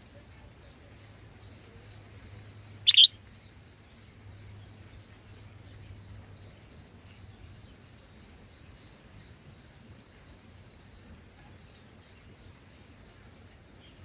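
Birds calling: a run of faint high chips, a few each second, with one loud sharp call about three seconds in.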